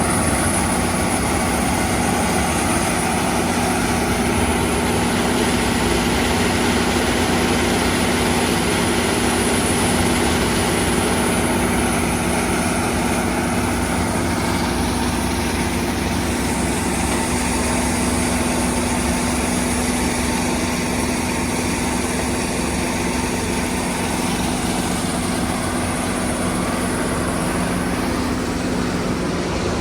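Engine of heavy logging machinery running steadily at one constant speed, with an even hum that neither rises nor falls.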